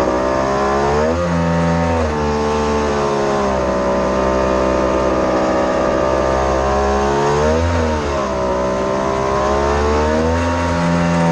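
Mini jet boat's engine running steadily under way, its revs shifting up and down a few times.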